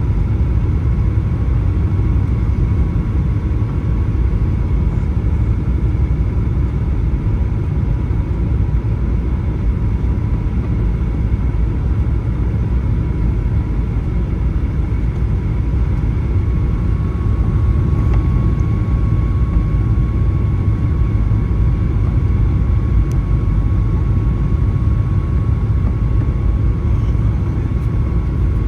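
Cabin noise of a Boeing 737-900 on approach, heard from inside the cabin: a steady low rumble of its CFM56-7B engines and airflow, with a thin steady whine that steps slightly higher about halfway through.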